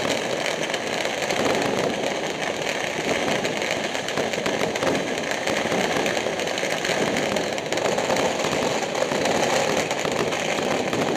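Dense, unbroken crackling and banging of a mass of firecrackers and fireworks going off at once, mostly strings of firecrackers and big ground bangers rather than the aerial shells. It is very loud and keeps up an even din with no gaps.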